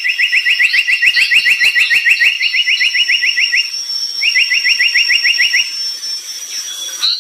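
Brown tali pocong songbird singing in full voice: a long, fast trill of rapidly repeated, down-slurred notes, a brief pause, then a second shorter trill. Faint higher chirps and a steady thin high whine run underneath.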